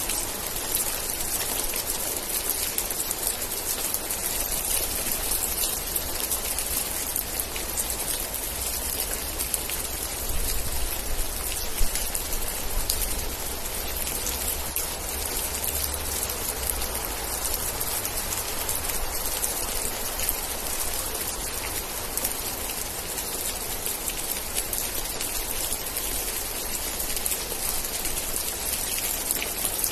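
Steady rain falling, a dense patter of drops over a low rumble that swells for a few seconds near the middle.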